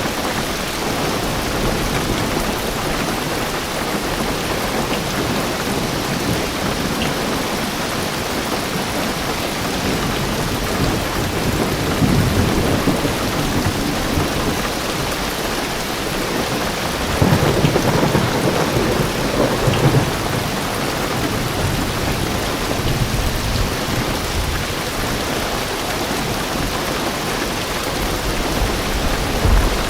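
Heavy rain drumming steadily on a car roof, heard from inside the car, with deep thunder rumbling about twelve seconds in and again longer a few seconds later.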